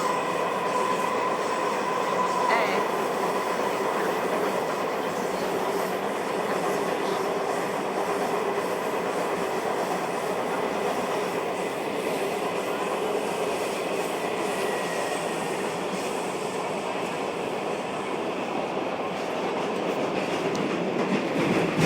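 Washington Metro railcar running between stations, heard from inside the car: a steady rumble of wheels on rail with a steady whine held over it.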